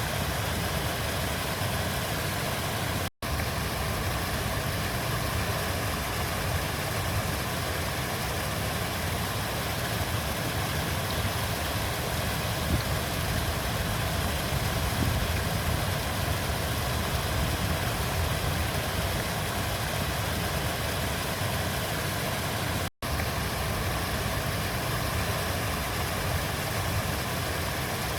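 Steady rushing of a flowing river: a continuous, even water noise with a deep rumble underneath. It cuts out for an instant twice, about three seconds in and again near the end.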